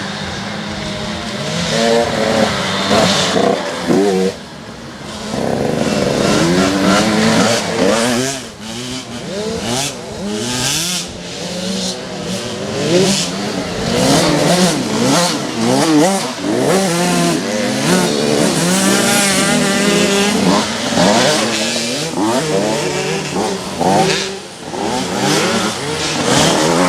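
Several motocross bikes racing, their engines revving hard, the pitch rising and falling as they accelerate and shift, with more than one bike heard at once.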